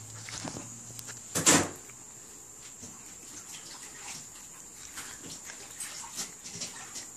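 Shih tzu puppy eating strawberries: small scattered clicking and smacking sounds, with one louder, brief sound about a second and a half in.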